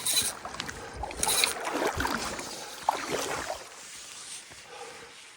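Water sloshing in two short swishes about a second apart, then quieter lapping that fades toward the end.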